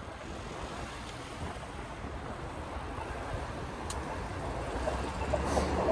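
Wind rushing over the microphone with road and traffic noise from a moving e-bike, growing steadily louder toward the end, with one sharp click about four seconds in.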